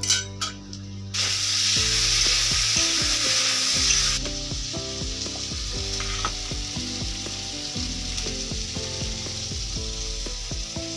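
Food sizzling as it fries in a pan. The sizzle starts suddenly and loud about a second in, then eases after about three seconds into a steady, softer sizzle.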